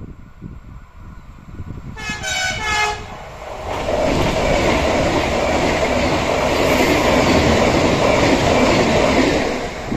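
A double Renfe Class 449 electric multiple unit sounds its horn for about a second, then passes close by at speed. The noise of wheels on the track and rushing air builds quickly, holds loud for about six seconds and eases off near the end.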